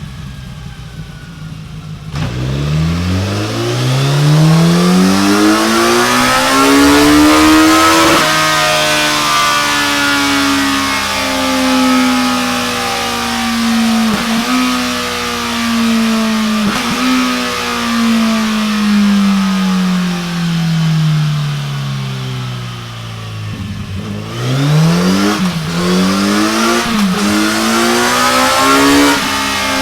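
Kawasaki Z900RS Cafe Racer's 948 cc inline-four running through a Delkevic DS70 9-inch carbon fibre oval end can. It idles briefly, then revs up, the pitch climbing for about six seconds. The revs hold with two short dips, fall away slowly, then climb again in short steps near the end.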